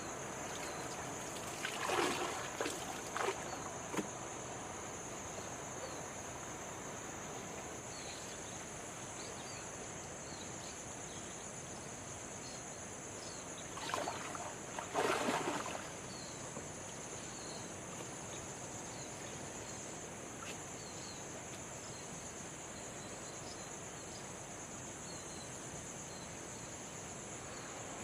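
Outdoor waterside ambience: a steady high insect drone with faint scattered chirps. Two short clusters of water sloshing or splashing come about two seconds in and again around fifteen seconds in.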